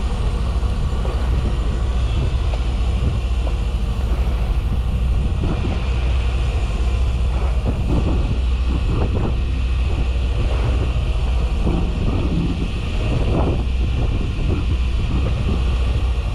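Fishing boat's engine running steadily with a deep hum, and wind noise on the microphone.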